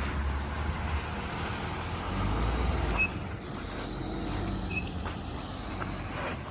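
Pickup truck running on a snowy, icy driveway, with its tires aired down for traction. Two short high chirps sound about three and five seconds in.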